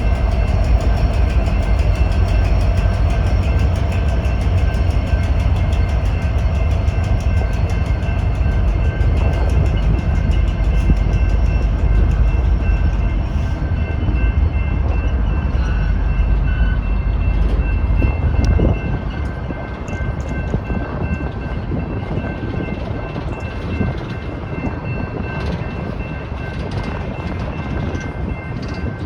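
BNSF coal train's freight cars rolling through a grade crossing, a heavy rumble with wheel clatter on the rails; the deep rumble drops off about two-thirds of the way through. A General Signals electronic crossing bell rings steadily above the train.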